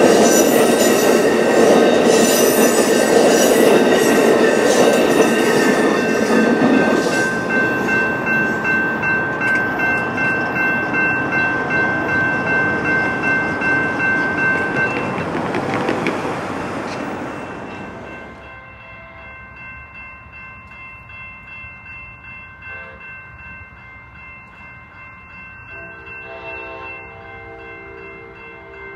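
Amtrak bilevel passenger cars rolling past on the rails with a regular clickety-clack, over the steady ringing of grade-crossing bells. The train noise drops away about two-thirds through, and near the end a locomotive horn sounds in the distance.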